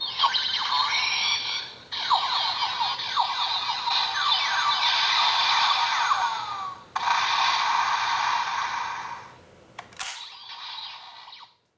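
Electronic sound effects played through a Kamen Rider Wizard toy's small speaker, triggered by a Wizard Ring. They come in four bursts of sweeping, siren-like tones, broken by short gaps, and cut off just before the end.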